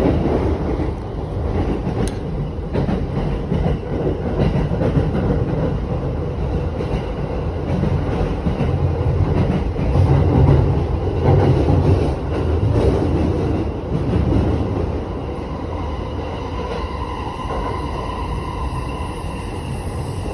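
Commuter train running along the track, heard from inside the carriage: a steady rumble of wheels on the rails. A faint whine of a few steady tones comes in near the end.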